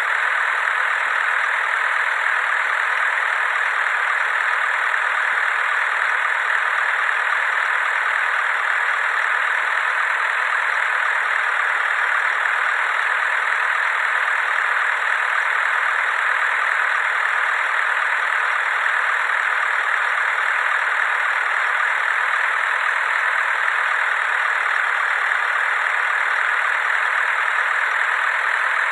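A truck engine running steadily with no change in speed, heard as an even drone.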